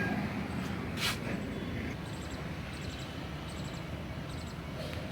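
Outdoor traffic ambience: a passing vehicle's engine hum fades out at the start, a single click about a second in, then a steady background hiss with faint high chirping repeating in short bursts.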